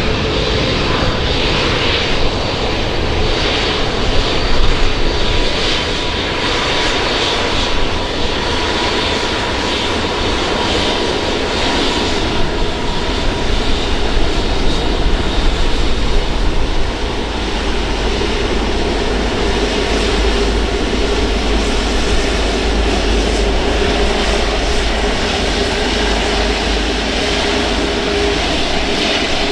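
Qantas Airbus A380's four Rolls-Royce Trent 900 turbofans running at taxi power as the jet rolls close by: a steady, loud roar with a held whine over it, the low rumble growing stronger in the second half.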